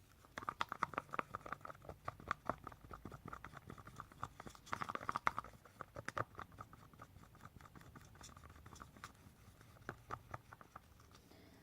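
A stirring stick clicking and scraping against the sides of a cup of tinted casting resin as it is mixed. The taps come quickly and irregularly, busiest early on and about five seconds in, then thin out.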